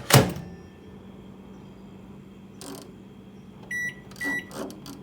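Microwave oven: the door shuts with a loud knock, then a steady low hum, and two short keypad beeps near the end as it is set.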